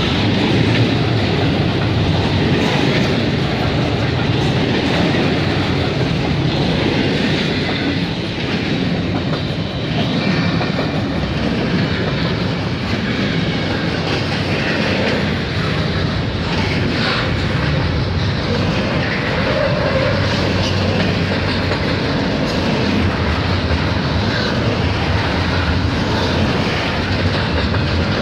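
CN intermodal freight train's double-stack container well cars rolling past at close range, with steady, loud wheel-on-rail noise.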